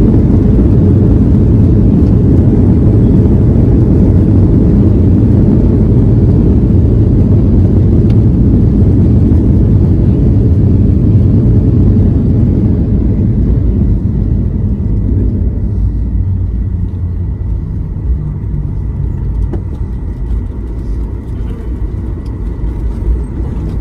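Low, steady rumble of a jet airliner heard from inside the cabin as it rolls on the runway. The rumble is loud for the first half and then gradually fades.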